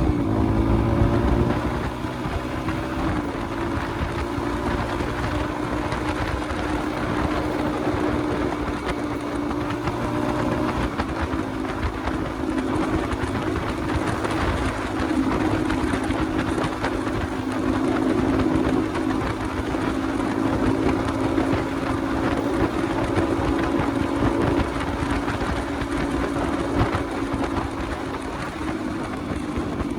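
Motorcycle engine running at a fairly steady cruising speed, with wind rushing over the microphone. The engine eases off about a second in and then holds an even pitch.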